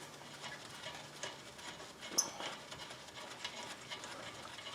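Faint, scattered clicks and light metallic taps of hand tools working on a car's rear brake, with one sharper tick about two seconds in.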